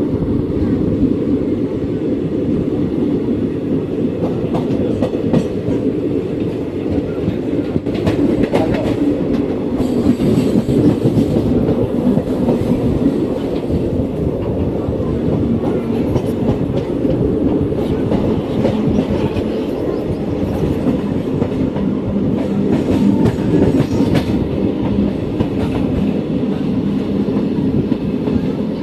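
Express passenger train running, a steady rumble of wheels on the track with irregular clickety-clack over the rail joints.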